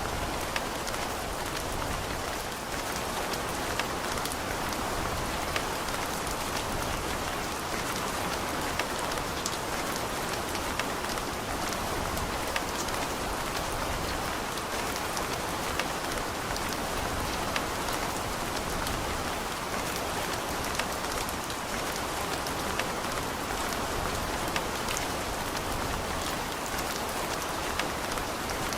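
Steady rain falling, with a dense patter of individual drops ticking on hard surfaces.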